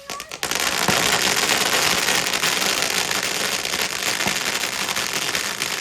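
Fireworks crackling: a few sharp pops, then a dense, rapid, continuous run of small cracks that keeps going without a break.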